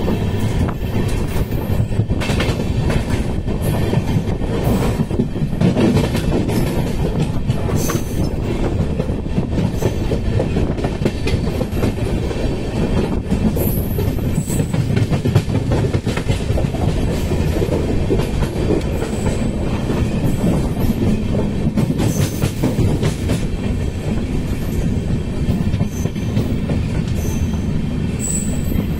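Indian passenger express train running, heard at an open coach doorway: a steady, loud rumble of wheels on rail with frequent clicks and clacks as the wheels pass over rail joints.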